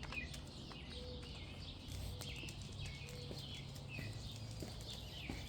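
Several songbirds chirping and calling together, many short falling notes repeated throughout, over a low steady background rumble.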